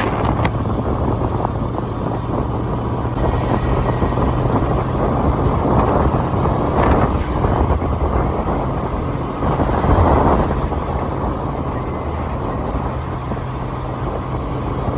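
Motorcycle riding along a road: a steady low engine hum under wind and road noise, swelling briefly twice.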